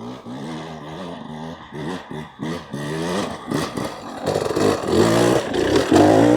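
Dirt bike engine revving in repeated bursts as it is ridden over rough trail, each rev rising and dropping in pitch, getting louder toward the end, with a few sharp clatters.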